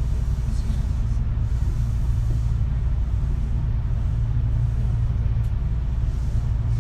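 Running noise heard from inside a Kintetsu 3220 series electric train: a steady low rumble of wheels and car body at cruising speed.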